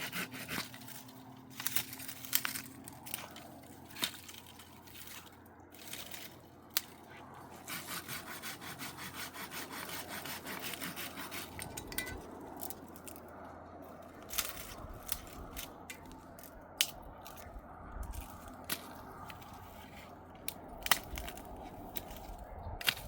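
Scattered knocks and cracks with stretches of scraping, as of hand work with wood and similar building materials.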